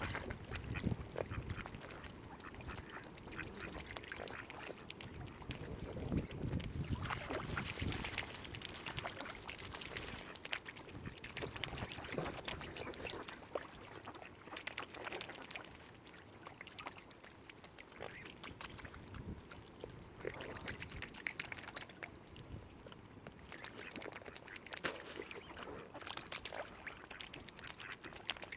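Ducks quacking at the water's edge in short, irregular calls, over a low rumble that is strongest in the first several seconds.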